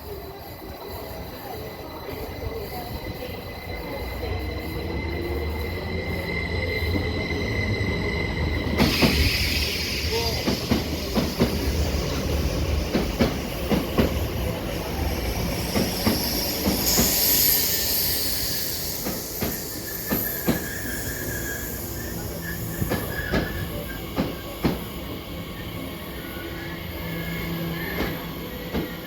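Electric passenger train moving along the platform: a low rumble builds up, then the wheels click repeatedly over rail joints, with a high wheel squeal about halfway through.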